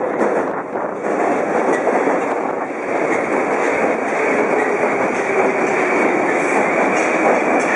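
Moscow Metro train running on the track: a steady, loud rumble and rattle of wheels and running gear, with a faint high whine growing slightly near the end.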